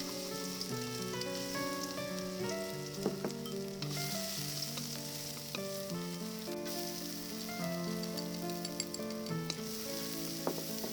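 Stuffed eggplant frying in hot oil: a steady sizzle with frequent small pops and crackles, heard under soft background music.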